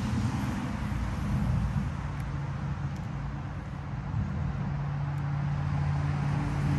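Steady low hum of a motor vehicle engine running, over a hiss of background noise; the hum grows a little stronger about halfway through.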